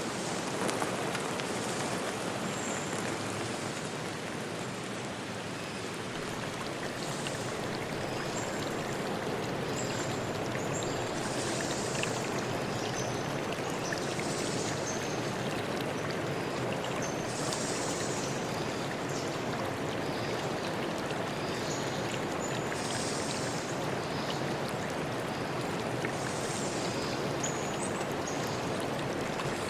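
Steady rushing of a forest stream, with short, high bird chirps every few seconds.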